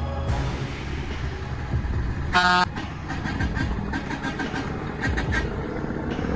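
Heavy truck engine running with a low rumble, and one loud horn blast about two and a half seconds in. It is followed by a string of short, fainter toots.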